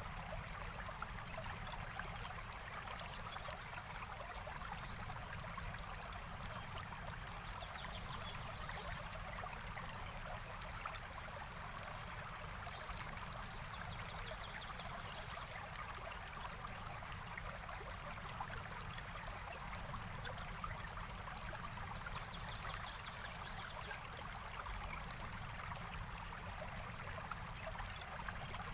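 Forest stream flowing steadily, with a few faint, high bird chirps now and then.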